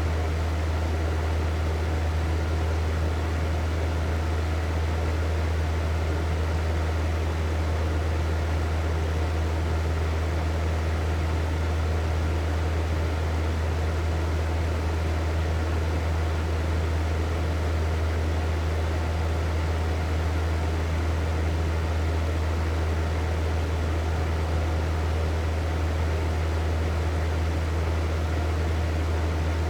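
Hair dryer running steadily on one setting: a constant rush of air over a low motor hum, with no change in pitch or level.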